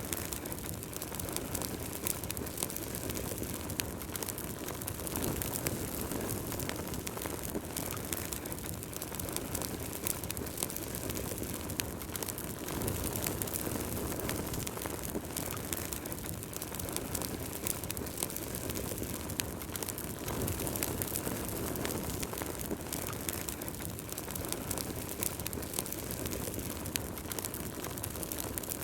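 Wood fire burning in a fireplace: a steady low rush of flames with many small sharp crackles and pops scattered throughout.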